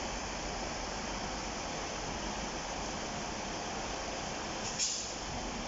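Steady hiss and rumble of a diesel multiple unit moving slowly through the station, with a brief high wheel squeal nearly five seconds in.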